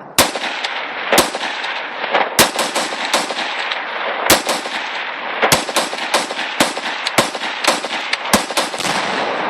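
Gunfire: a string of rifle shots at a tannerite target, about one loud shot a second with fainter, quicker shots in between. None of them sets off the target.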